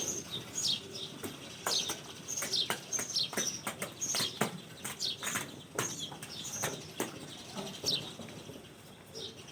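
Small birds chirping repeatedly in quick, short, falling notes, with irregular sharp clicks among them.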